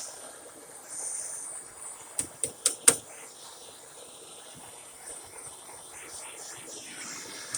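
Paint scraper scraping and tapping at ice on a backhoe's control-panel cover: a short scratch about a second in, then four sharp clicks in quick succession, the last the loudest, over a faint steady hiss.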